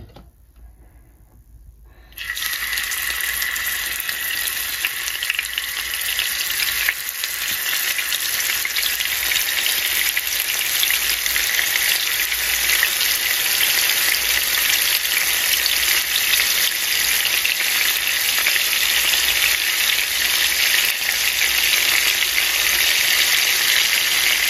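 Marinated prawns sizzling as they shallow-fry in hot oil in a frying pan. The sizzle starts suddenly about two seconds in as the prawns go into the oil, then keeps up steadily and grows a little louder as more prawns are added.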